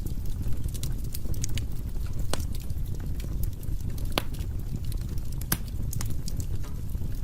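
Wood fire burning in a fireplace: a steady low rumble of flames with irregular sharp crackles and pops, two louder pops about four and five and a half seconds in.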